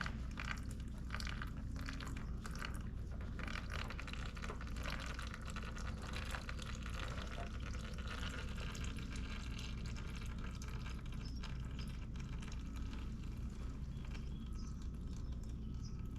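Warm engine oil pouring out of a 2022 Yamaha R7's oil filter mount into a drain pan after the filter is unscrewed, a continuous splashing trickle.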